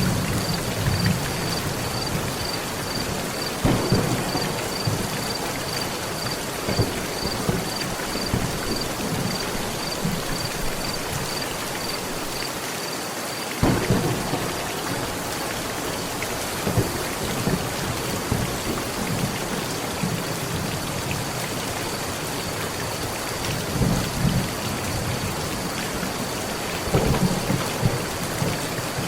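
Heavy rain falling steadily on a metal roof, with low rolls of thunder; a sudden sharp thunderclap about halfway through and more rumbling near the end.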